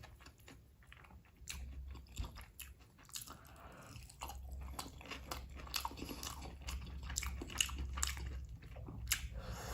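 Close-miked chewing and eating sounds of a person eating rice with chicken and egg curry: frequent short wet clicks and smacks of the mouth, over a low steady hum.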